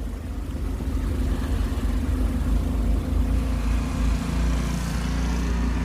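Snowblower engine running steadily, a constant low drone.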